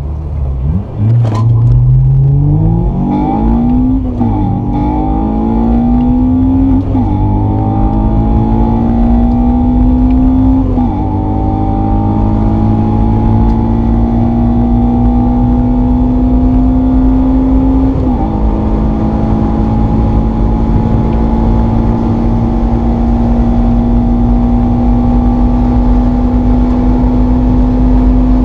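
Car engine accelerating hard from a standstill through the gears. The pitch climbs and then drops at each upshift, about five times, with each gear lasting longer than the last. After the final shift it settles into a steady high drone.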